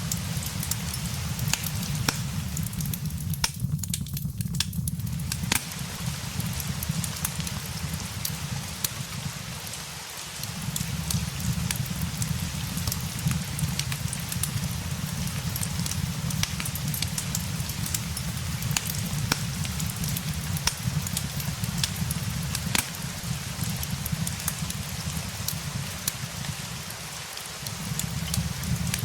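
Steady rain with a low rumble underneath, mixed with the scattered sharp pops and crackles of a fireplace. The low rumble drops away briefly twice, about ten seconds in and near the end.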